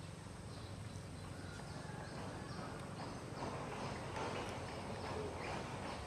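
Small songbirds chirping: short, high, falling chirps repeating about twice a second over a steady low background hum.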